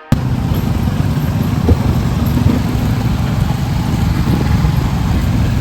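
Motorcycle running on the move: a loud, steady engine-and-road noise, heaviest in the low end, that cuts in abruptly at the start.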